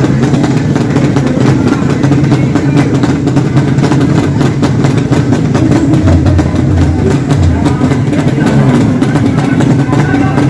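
Drag bike motorcycle engines running, in a loud, continuous din.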